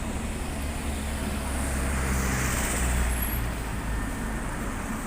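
Street traffic with a heavy vehicle passing close by: a low engine hum and tyre hiss that swell to a peak about two to three seconds in and then ease off.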